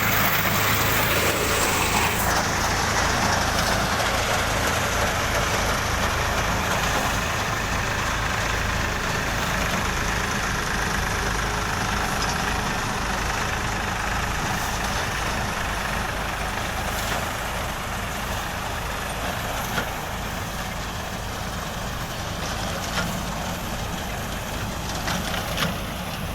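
Tractor's diesel engine running steadily while it powers a wheat reaper, slowly getting quieter, with a few short ticks near the end.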